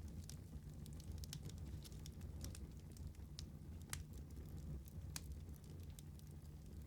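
Wood fire crackling: irregular sharp pops and snaps, several a second, over a low steady rumble of the burning. A couple of louder pops come about four and five seconds in.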